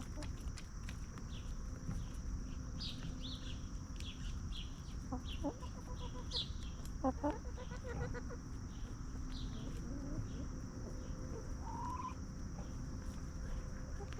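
Free-range hens clucking, with a short run of clucks from about five to eight seconds in and a single rising call near the end. Short high chirps recur throughout over a steady high-pitched tone.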